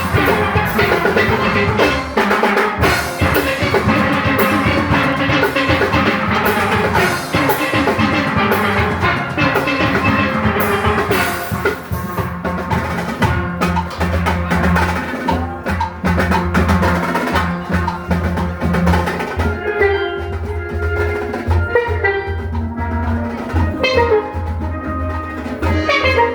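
A youth steel orchestra playing: many steelpans carrying the tune over a drum kit and percussion. About twenty seconds in the full band thins out, leaving the pan notes more exposed.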